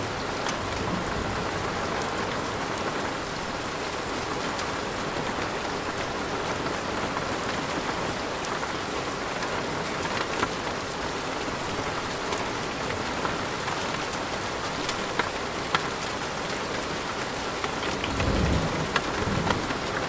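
Steady heavy rain falling, with scattered drops ticking, and a low rumble of thunder rolling in near the end.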